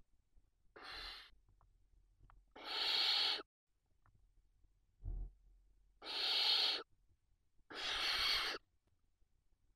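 Barn owl chicks giving four hissing, snore-like calls, each about half a second to a second long. A short low thump comes about five seconds in.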